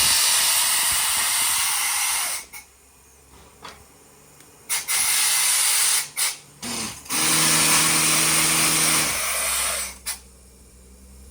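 Loud hissing blasts of compressed air from a borewell drilling rig. A long blast ends about two seconds in, then come shorter blasts and quick puffs. The blast near the middle has a steady low hum under it.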